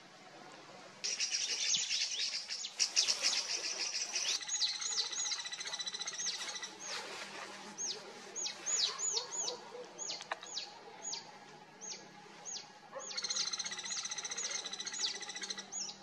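Small birds calling in forest: rapid high trills and a long run of quick, sharply falling whistled notes, starting suddenly about a second in. A dense trill returns near the end.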